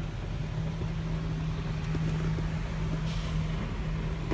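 Touch-free automatic car wash at work, heard from inside the car: a steady low hum under a hiss of spray, with a brief louder wash of spray passing about three seconds in.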